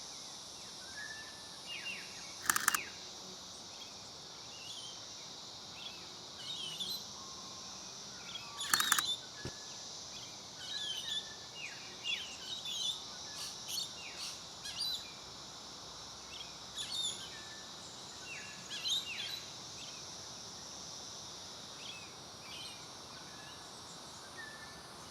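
Outdoor birdsong at a wetland: many small birds chirping and whistling throughout, over a steady high insect drone. A few louder, short rasping sounds stand out, about two and a half seconds and nine seconds in.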